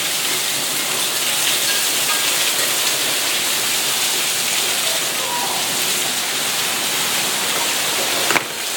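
Heavy rain coming down hard, a steady, even hiss that dips briefly near the end.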